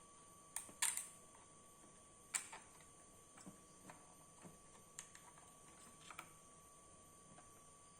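Scattered sharp clicks and taps, about a dozen, loudest in the first two and a half seconds, over a faint steady high hum: computer hardware being handled during desktop PC assembly.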